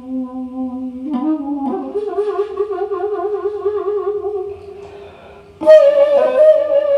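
Daegeum, the Korean bamboo transverse flute, playing a slow improvised melody: a held low note bends up into a higher note with wide, wavering vibrato that fades away, then a sudden loud higher note enters with a bright, breathy edge about five and a half seconds in.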